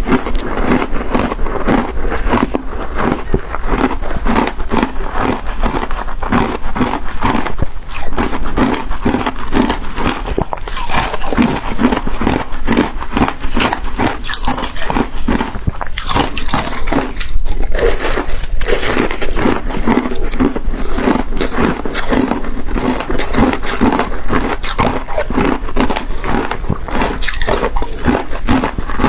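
Close-miked crunching and chewing of frozen shaved ice, a dense, unbroken run of crisp crunches with one brief lull about two-thirds of the way through.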